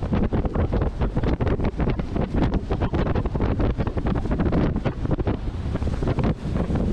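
Wind buffeting the microphone: a loud, irregular rumbling rush, heaviest in the low end, with no clear tone in it.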